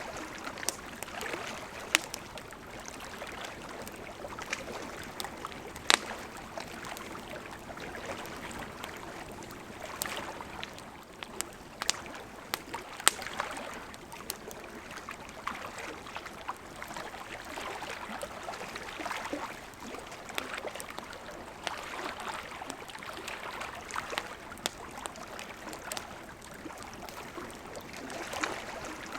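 A crackling wood campfire, its scattered sharp pops standing out over small lake waves that lap at the shore in soft, uneven swells.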